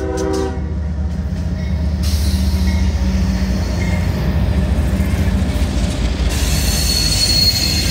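CSX freight train's diesel locomotives passing close by with a heavy, steady engine rumble. The horn's chord cuts off about half a second in; wheel and rail noise builds from about two seconds, and a thin, steady, high wheel squeal sets in near the end.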